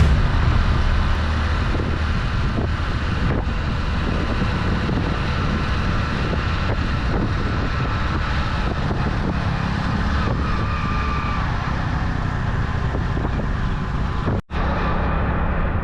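Hero Splendor Plus single-cylinder motorcycle engine running steadily while riding, with wind rushing over the microphone. Near the end the sound drops out for an instant.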